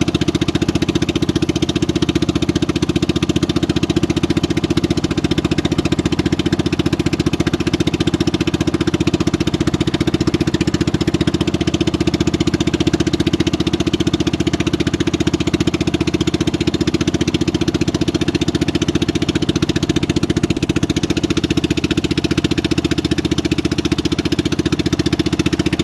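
Engine running steadily at an unchanging speed, its fast even firing pulse unbroken throughout.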